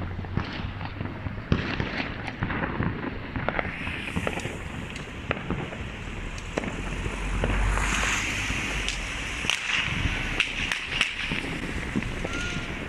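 Fireworks and firecrackers going off all around in an irregular, dense string of bangs and crackles, with one louder bang about a second and a half in.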